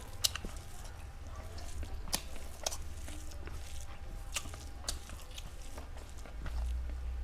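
A person eating meat close to the microphone: wet chewing and biting, with a handful of sharp clicks at irregular moments. A steady low hum runs underneath and gets louder near the end.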